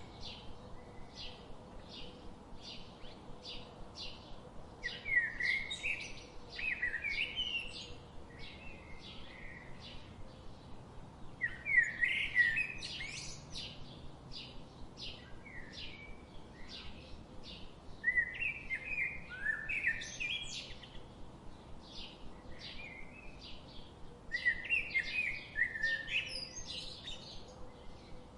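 Birdsong: a steady run of short, high chirps, about two to three a second, with a louder warbling song phrase breaking in about every six seconds, over a faint background hiss.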